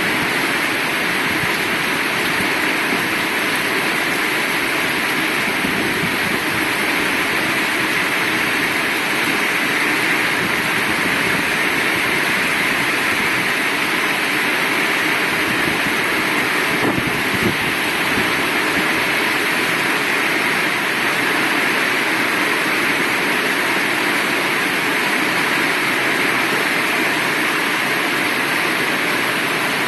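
Heavy rain pouring down, a dense steady hiss that holds the same level throughout.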